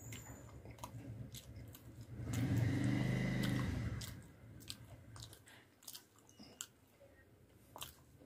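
Close-up mouth sounds of a person eating puri with fried potato: chewing with many small wet clicks of lips and teeth. A low hum swells for about two seconds in the middle and is the loudest sound.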